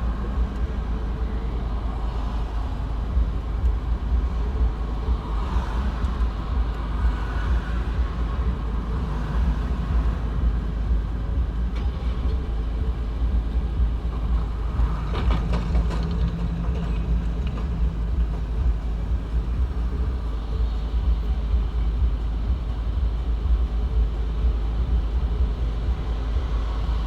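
Road traffic with a steady low rumble throughout and a few short clatters near the middle.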